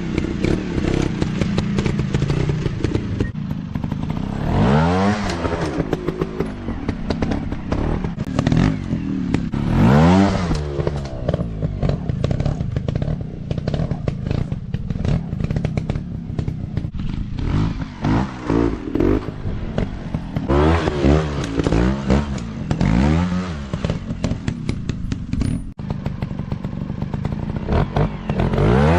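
Dirt bike engine revving up and dropping back again and again, in several short rising-and-falling revs, with clattering and scraping throughout.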